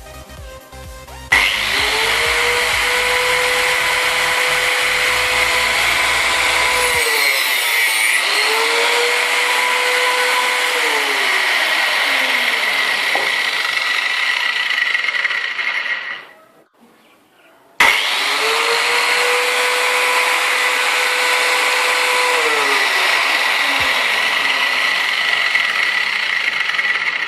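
Angle grinder running at full speed in two long runs, with a steady high whine. It starts suddenly just over a second in, dies away about 16 seconds in, and starts again suddenly about two seconds later. Background music plays under the first few seconds.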